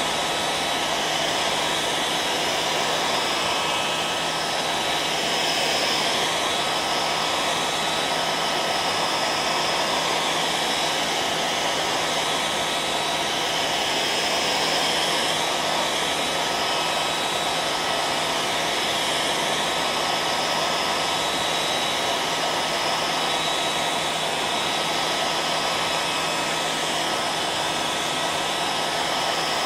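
Hair dryer running steadily: a constant airflow rush with a steady motor hum and whine underneath.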